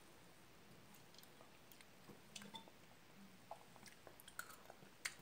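Near silence with faint chewing and a few soft, scattered clicks as a spoonful of canned chicken noodle soup is tasted.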